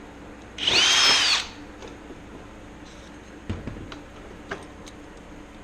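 A power drill runs briefly, under a second, its whine rising and falling, drilling out a rivet hole in the sheet-metal flaperon skin that was too tight. A few light clicks and taps follow.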